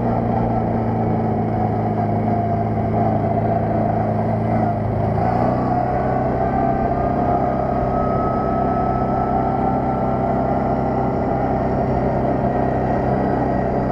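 Quad bike (ATV) engine running steadily, its note shifting slightly about five seconds in.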